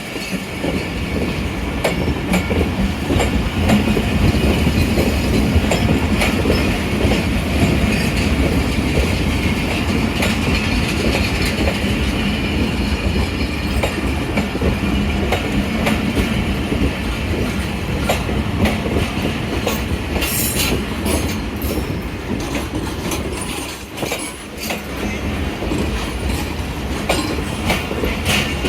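Passenger train rolling past, its wheels clacking over the rail joints in a steady stream of clicks, with sharper high wheel squeals about twenty seconds in.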